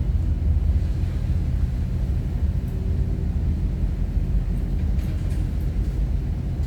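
Steady low rumble of a bunker tanker's engines while the ship manoeuvres.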